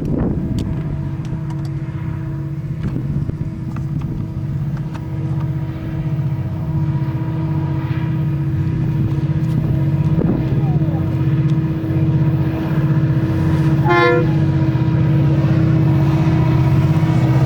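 Diesel locomotives of a long freight train running with a steady, pulsing low drone. A short horn toot sounds near the end.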